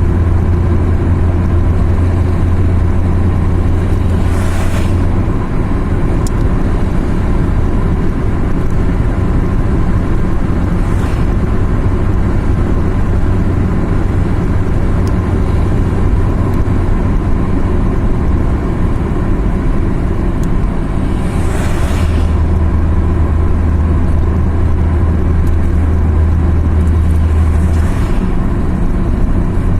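A car driving at a steady pace: a continuous low engine drone with tyre and road noise, the engine note shifting slightly now and then. A few brief whooshes stand out, about four, eleven and twenty-two seconds in.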